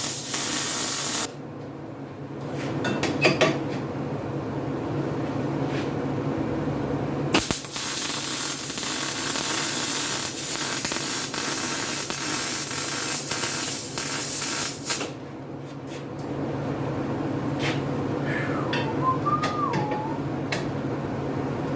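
Welding arc hissing and crackling as exhaust pipe joints are welded solid, so they will not leak and tick. It comes in runs several seconds long with short breaks between them.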